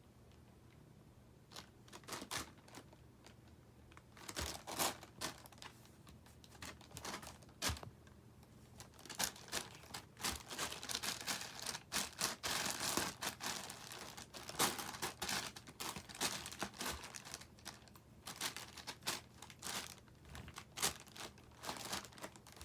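Crinkly wrapper rustling and crackling in irregular bursts as a cat plays with it, busiest in the middle of the stretch.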